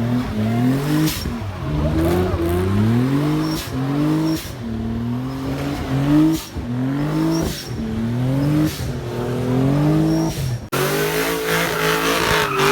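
A car engine revved over and over, its note climbing and dropping back about once a second. Near the end it changes suddenly to a steadier high engine note under a loud hiss.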